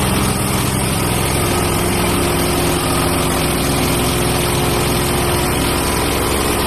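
Gas engine of a Hudson Patriot portable bandsaw sawmill running steadily as the band blade rips a 1x6 board off a pine log. A steady whine comes in about a second in and holds.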